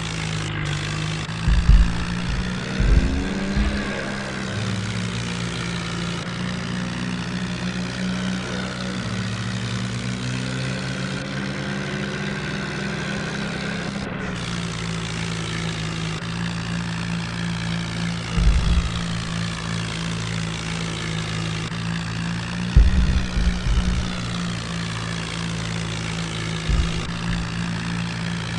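Tractor engine running steadily with an even drone, broken by a few brief low thumps.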